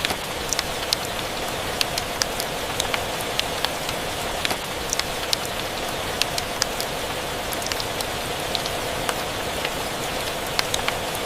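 Steady rain mixed with a crackling wood fire in a fireplace: an even hiss dotted with frequent short, sharp pops and clicks.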